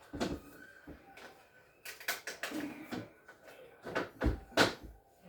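A series of knocks and clunks from parts being handled and fitted during refrigerator reassembly, the loudest two coming about four seconds in.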